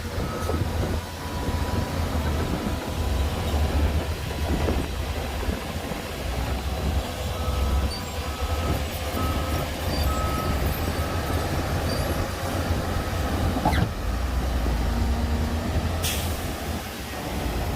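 Heavy diesel earthmoving machinery, a bulldozer and dump trucks, running with a deep steady engine note. A reversing alarm beeps in a short series in the middle, and a brief hiss comes near the end.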